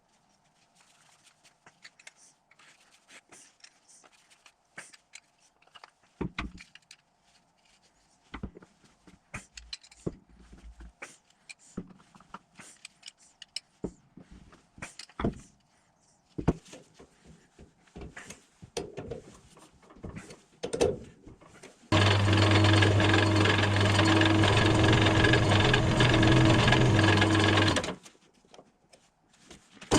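Workshop handling clicks and knocks for a while, then an electric power tool runs loud and steady for about six seconds and stops, working the plywood pulley blank.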